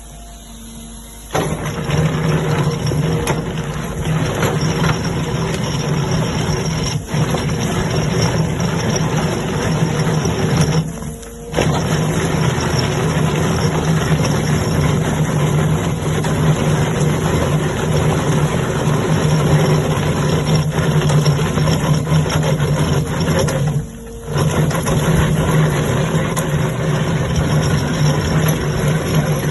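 Heavy rock-grinding machine running, a loud steady engine drone under a wash of noise. It starts suddenly about a second in and drops out briefly twice.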